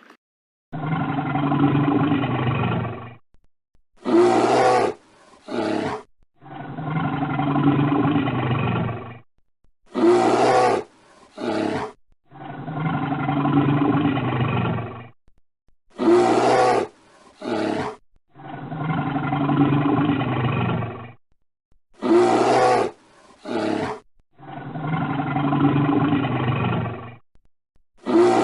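A big cat roaring: a long, throaty call followed by two short ones, the same sequence repeating about every six seconds, five times over.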